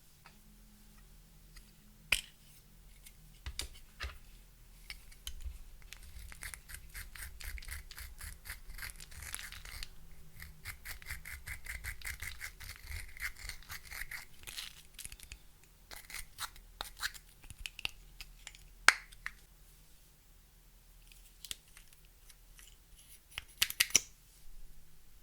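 Close-up sounds of clear slime being worked together with makeup and glitter: dense fine crackling and sticky clicking, thickest in the middle. A few sharper clicks stand out, the loudest near the end.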